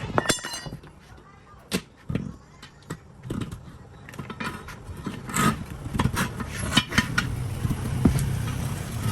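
Scattered metal clinks and knocks of tools, with a steady low engine hum coming in about halfway.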